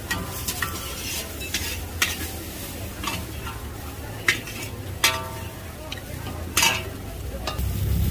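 Pad thai stir-frying and sizzling in a wok over a wood fire, a metal spatula scraping and clanking against the pan. Several sharp metal clanks, two of them ringing briefly, stand out over a steady low rumble.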